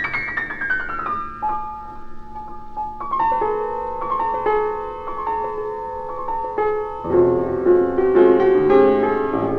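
Solo piano playing between stanzas of a poetry reading: a falling run of notes, then slow single notes, growing fuller near the end.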